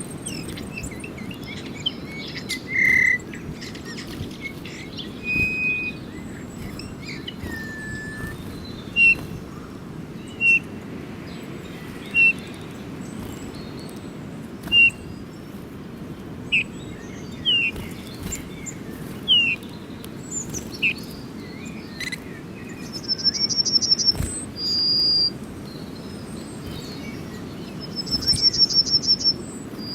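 Small birds calling with short chirps every second or two, and twice a rapid, high trill lasting about a second, over steady low background noise.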